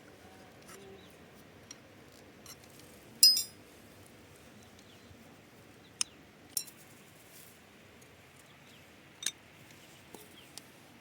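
Sparse metallic clinks and taps of hand tools and brake parts being handled while the front brake pads and caliper are refitted. The loudest clink rings briefly a little over three seconds in. Sharper single clicks follow around six and nine seconds in.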